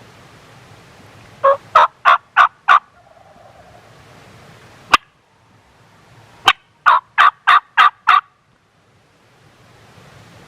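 Wild turkey calling: two loud runs of short, sharp notes, about three a second, the first of five notes and the second of seven, with a single sharp click between them.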